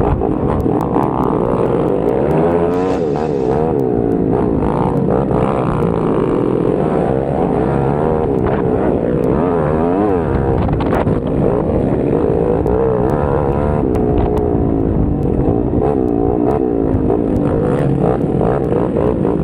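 Several mini motocross bikes' engines revving together, their pitches constantly rising and falling against each other as the riders work the throttles.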